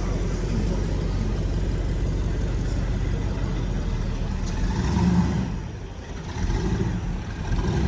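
A car engine running with a low, steady rumble, which fades briefly about six seconds in and then comes back.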